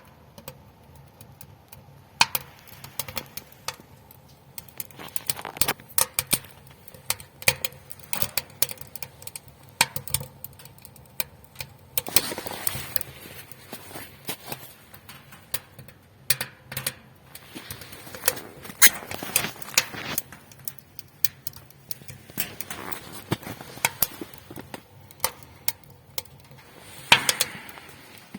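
Fire crackling in a wood-burning tent stove: irregular sharp crackles and pops, with a few longer, louder noisy spells.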